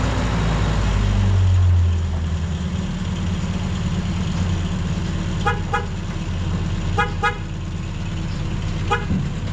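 Motor vehicle engine running, a little louder for the first couple of seconds before settling into a steady idle. The horn gives five short beeps: two quick ones about halfway through, two more a second and a half later, and a single one near the end.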